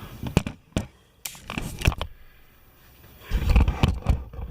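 Clicks, knocks and scraping of tools and parts being handled on the generator, with a louder, low rumbling clatter from about three seconds in.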